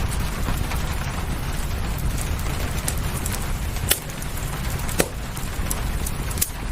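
Fireplace crackling, with sharp pops, two louder ones about four and five seconds in, over a steady low rumble and the even hiss of rain.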